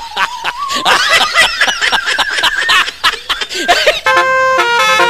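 A jumble of quick, chattering high sounds, then about four seconds in a telolet horn starts playing its tune: a run of steady, clear notes stepping from one pitch to the next.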